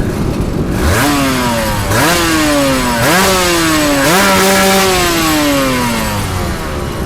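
Aprilia RS250 two-stroke V-twin with a Tyga performance exhaust, revved four times about a second apart. Each blip rises sharply and falls back, and the last dies away slowly toward idle.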